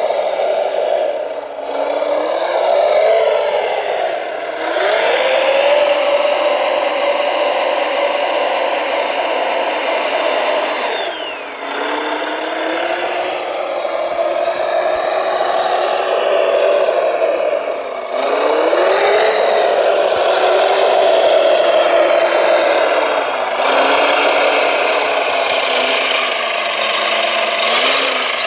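Small electric motors of radio-controlled model construction vehicles whining under a layer of mechanical noise. Their pitch rises and falls again and again as the machines speed up, slow and stop.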